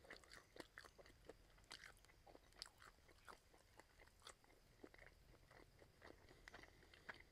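Quiet, close-miked chewing of pork rib meat with the mouth closed: an irregular run of soft wet mouth clicks and smacks, about three a second.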